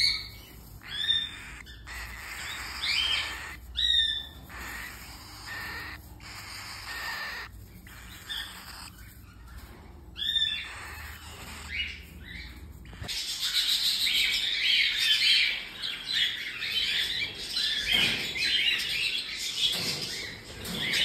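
Cockatiel chicks calling: short separate chirps and squawks at first, then, about two-thirds of the way in, a dense, continuous chorus of calls.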